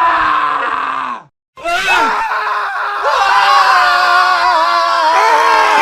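Several men screaming at once in an overlapping montage of screams, loud and sustained. It stops dead for a moment just over a second in, then another layered burst of male screams starts.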